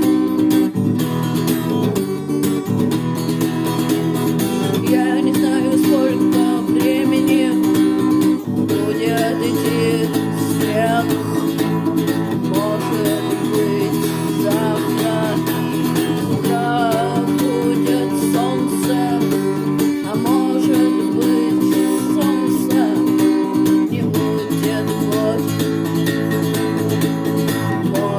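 Home-recorded rock song passage with no vocals: strummed guitar chords over bass and a drum machine's steady ticking beat. A wavering lead line, bending in pitch, plays over the top through the middle of the passage.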